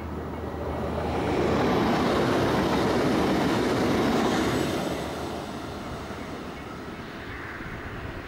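Passenger train passing close by: the rumble and rush of wheels on rail grows over about a second, stays loud for about three seconds as the cars go past, then fades as the train moves away.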